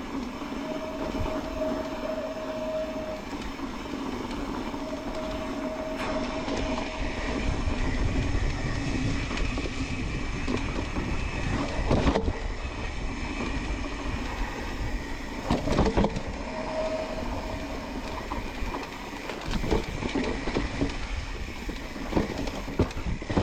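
Mountain bike riding downhill over rock on a wet trail: steady tyre rolling and frame rattle, with a tone that comes and goes and sharp knocks from bumps, the loudest about halfway through and again past two-thirds.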